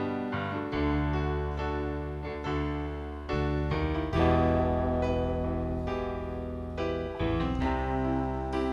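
Electric keyboard playing slow sustained chords over deep bass notes, changing chord every few seconds: the instrumental intro of a gospel worship song, before the vocals enter.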